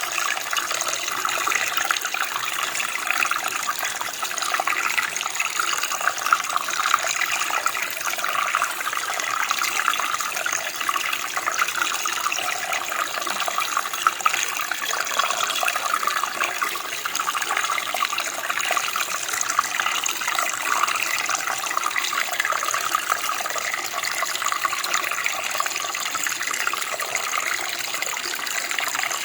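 Running water: a steady splashing flow of a stream, even and unbroken, with its sound mostly in the higher register.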